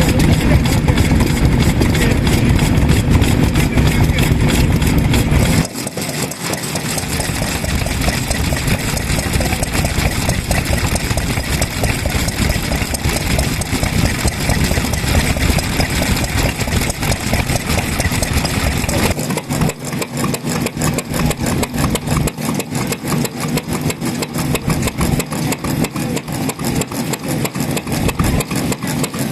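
Vintage stationary farm engines (Japanese oil-fuelled hatsudoki) running steadily. The sound changes abruptly about six seconds in and again about two-thirds of the way through, as a different engine is heard each time. The last engine beats at a fast, even rhythm.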